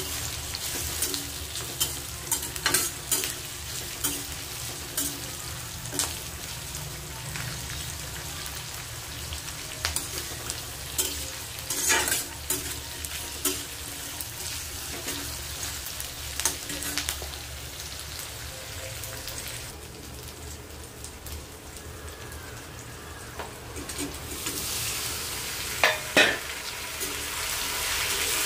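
Sliced onions and whole spices sizzling in oil in an iron kadai, stirred with a flat steel spatula that scrapes and clicks against the pan now and then. The sizzle grows louder over the last few seconds.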